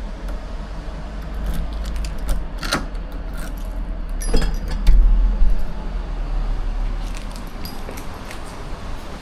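Scattered clicks and short metallic clinks over a steady low rumble, with a louder swell about halfway through.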